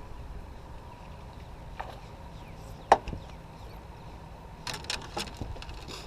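A single sharp knock, like a hard object striking wood or a hull, about three seconds in, then a quick cluster of clicks and taps near the end, over a low steady rumble.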